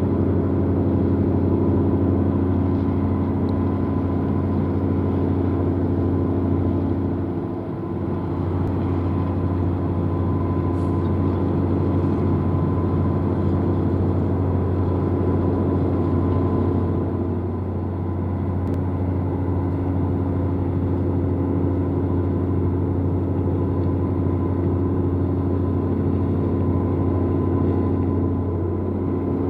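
A large engine running steadily: a low drone with a constant hum, dipping slightly twice.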